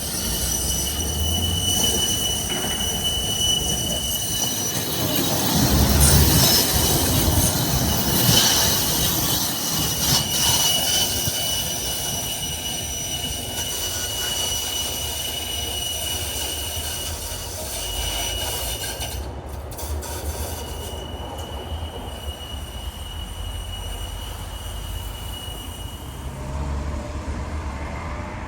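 PKTS 71-931M Vityaz-M tram running along the track: a steady rumble of wheels on rail with a steady high-pitched wheel squeal, which drops out briefly about two-thirds of the way through, comes back, and stops near the end.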